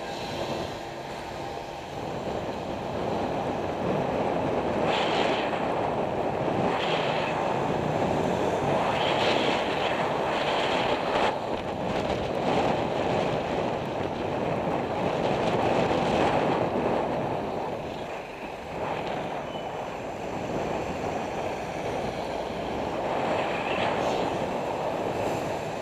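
Road traffic rumbling, with wind rushing over a cyclist's camera microphone as it rides; a few short brighter hisses stand out now and then.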